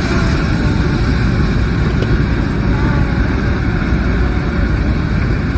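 Airplane cabin noise: a loud, steady, deep rumble of engines and airflow, which the passenger finds a strange noise.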